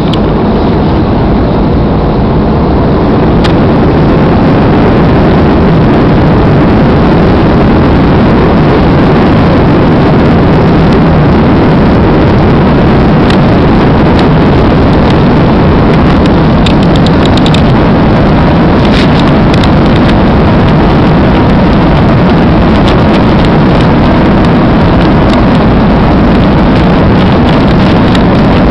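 Airliner engines and airflow heard inside the passenger cabin during takeoff, a loud steady noise that builds over the first few seconds and then holds level, with a few light rattles partway through.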